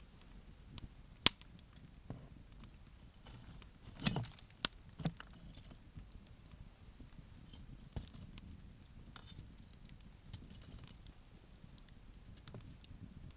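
Wood fire crackling, with scattered sharp pops. One sharp crack comes about a second in, and a louder cluster of pops a few seconds later.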